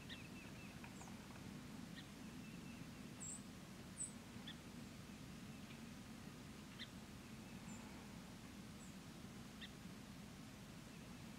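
Quiet outdoor ambience over a faint low hum, with scattered faint bird chirps: short high peeps a few times and a brief thin call every two to three seconds.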